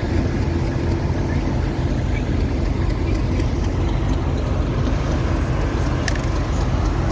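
Class 37 diesel locomotive's engine idling steadily while standing, with a brief click about six seconds in.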